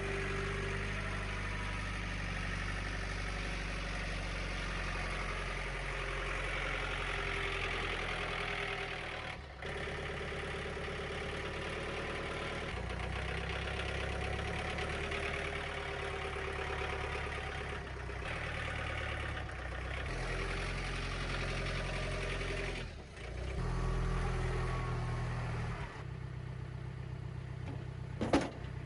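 An engine running steadily, its pitch and load stepping up and down several times with brief drops, as machinery is worked to move a log on and off the sawmill. A single sharp knock comes near the end.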